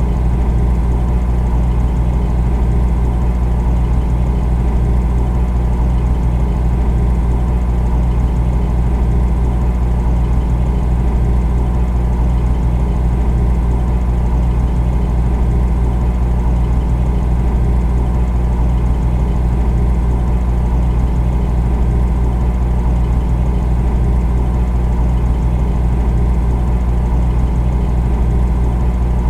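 Refrigerator running with a steady, deep motor hum that never changes, with a fainter hiss above it.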